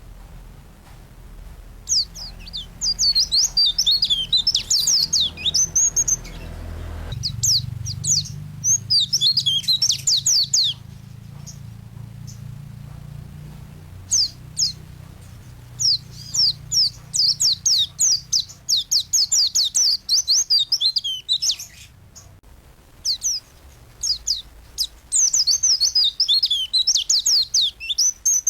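Pleci (white-eye) singing in full song: phrases of rapid, high, steeply sliding twittering notes lasting a few seconds each, broken by short pauses, over a faint low hum.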